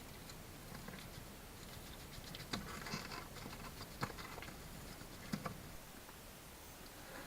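Light scuffling and pattering of a small animal moving about, with several sharp taps between about two and a half and five and a half seconds in.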